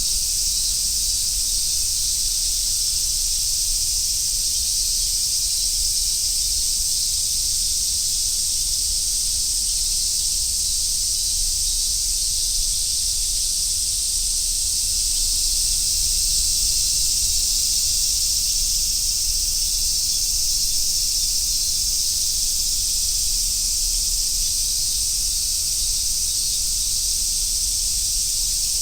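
Chorus of Japanese cicadas, among them large brown cicadas and robust cicadas, singing as one steady, high-pitched drone with no breaks.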